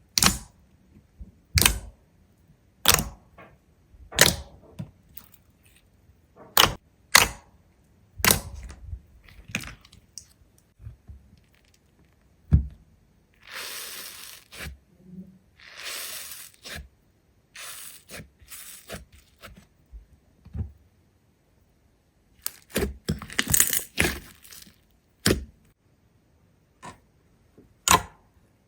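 A series of sharp clicks and knocks, spaced irregularly, with two stretches of scraping or rustling about halfway through and a quick flurry of clicks near the end.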